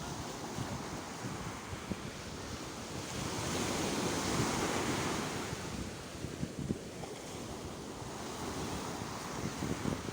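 Sea waves washing onto a shore, one wave swelling to a peak about four to six seconds in and then easing back.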